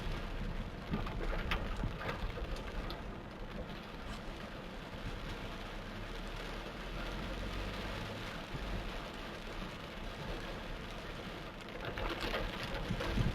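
Torrential rain pouring down steadily, growing heavier near the end.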